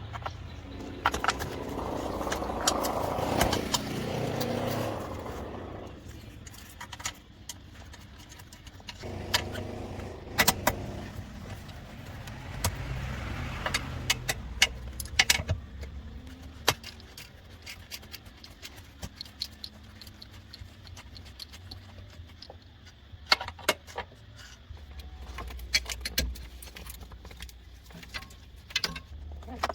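Metal tools and parts clinking and knocking irregularly, in many sharp separate clicks, with stretches of rustling and handling noise.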